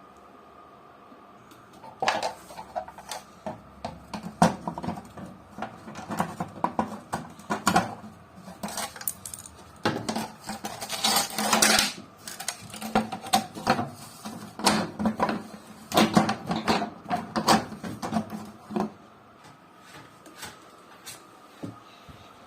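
Rapid, irregular clinking and clattering of small hard objects, starting about two seconds in and stopping a few seconds before the end, over a faint steady hum.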